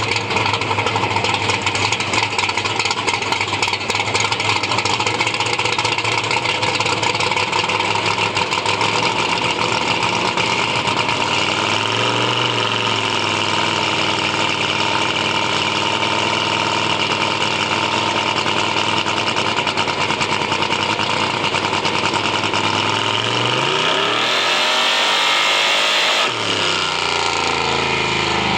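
Chevy II's engine idling loud and steady, revved briefly about twelve seconds in, then revved harder near the end with a rising and falling pitch before settling back to idle.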